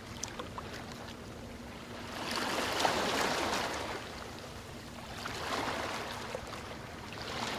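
Sea waves washing in and drawing back: a larger wave swells and fades about two to four seconds in, a smaller one follows, and another begins near the end, with light crackling of the water between.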